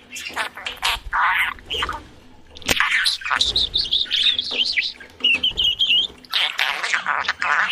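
Budgerigars chattering: a run of scratchy squawks and rapid warbling chirps, with a brief lull about two seconds in.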